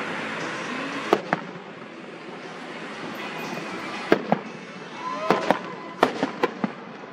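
Fireworks shells bursting: about ten sharp bangs, a pair about a second in, another pair around four seconds, then a quick run of six between five and seven seconds.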